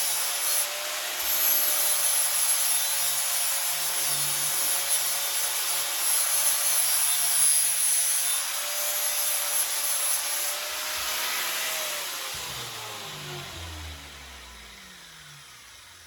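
Angle grinder grinding down welds on a pit bike frame, a steady whine with grinding hiss. About twelve seconds in it is switched off and its pitch falls as the disc spins down.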